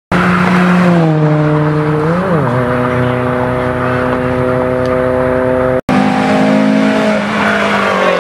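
A car engine running hard at high, steady revs, with a quick rise and fall in pitch about two seconds in. Near the end the pitch drops as the car passes close by. The sound cuts out for an instant a little before six seconds in.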